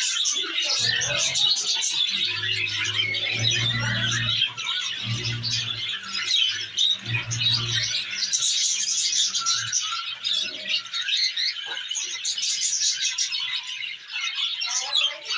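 A group of budgerigars chattering and chirping nonstop in a busy warble, with a low hum coming and going in the first half.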